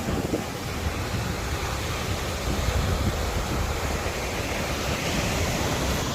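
Wind buffeting the microphone, a steady rushing noise over a fluttering low rumble.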